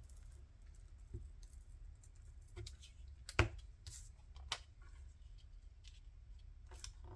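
Quiet handling of paper and craft supplies on a work table: a few soft taps and rustles, the sharpest about three and a half seconds in, over a low steady hum.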